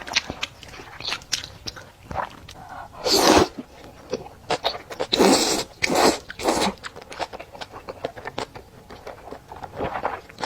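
Close-miked eating of fried rice noodles: chewing and mouth clicks, with a few louder noisy bursts about three, five and six and a half seconds in.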